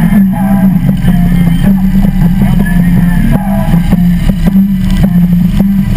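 Harley-Davidson V-twin engine running steadily at cruising speed, with wind rushing past the bike-mounted microphone.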